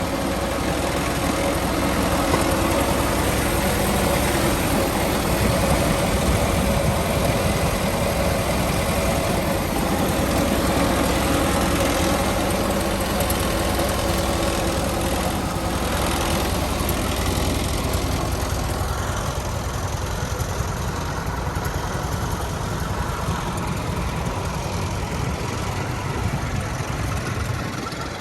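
M422A Mighty Mite's air-cooled V4 engine running steadily, a little quieter in the second half.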